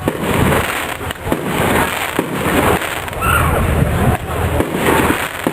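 Fireworks display going off: a dense, continuous barrage of bangs and crackles with no pause.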